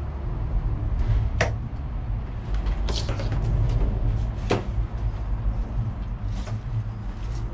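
Sharp clicks and knocks, three loud ones and several smaller, from cutting and handling the excess soil-warming cable, over a steady low rumble.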